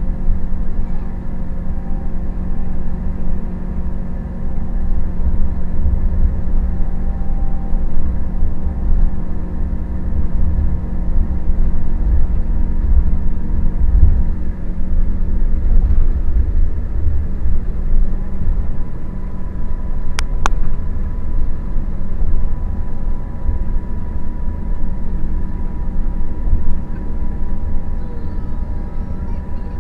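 Scania K400IB coach's engine running steadily with a deep rumble, with two sharp clicks about twenty seconds in.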